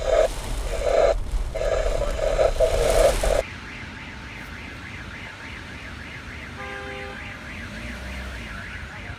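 A loud rushing noise that cuts off suddenly about three and a half seconds in, leaving a fainter electronic siren tone warbling rapidly up and down, several times a second.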